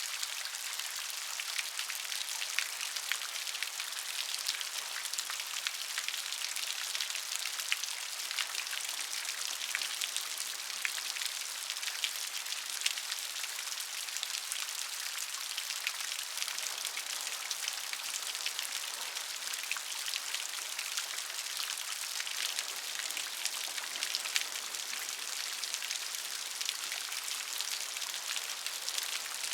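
Steady rain with many small drops pattering, a dense hiss dotted with tiny clicks.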